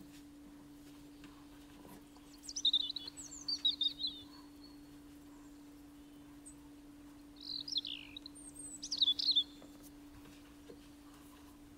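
A songbird twittering in two short bursts of quick, high chirps, over a steady low hum.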